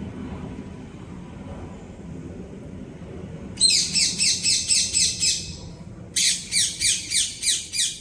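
A small songbird calls two quick runs of sharp, downward-slurred notes, about six notes a second. The first run starts a little past the middle and lasts nearly two seconds; the second starts about a second later and carries on to the end.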